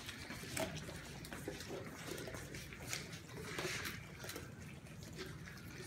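Basset hound puppies eating soft mush from their dishes: faint, irregular wet lapping and smacking clicks.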